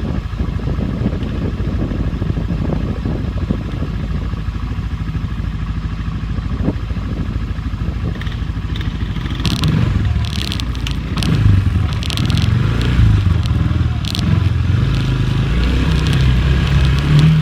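Four-wheeler (ATV) engine running, picking up revs about halfway through. Several short clattering, scraping noises come around the same time.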